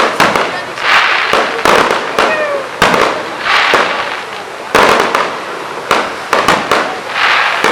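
Fireworks display: shells bursting in a rapid run of sharp bangs, each followed by a crackling hiss as the effects burn out.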